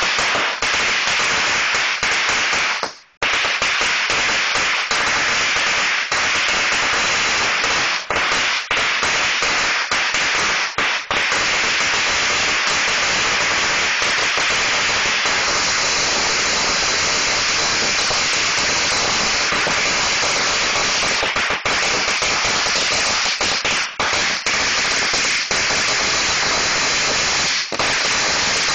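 A 4,000-count string of Black Cat firecrackers going off, the bangs coming so fast they merge into one constant loud crackle, with a brief break about three seconds in.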